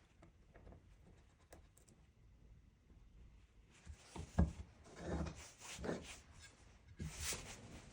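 A knock followed by several short rubbing or scraping strokes in a small room, after a few seconds of near quiet with faint clicks.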